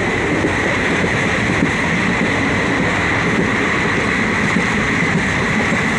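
Passenger train running fast, heard from inside a carriage: steady rumble and rush of wheels on the rails with wind noise.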